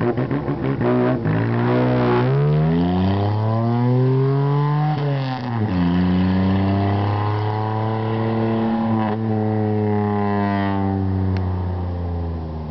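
Geo Metro's G10 three-cylinder engine through a 2-inch side-pipe exhaust, revving up for about four seconds, dropping sharply about five seconds in, climbing again, then slowly winding down with a raspy note.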